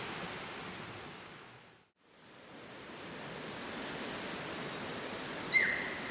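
Steady outdoor hiss that fades out to silence about two seconds in and fades back up, with faint high bird chirps in the middle and one loud, short bird call near the end.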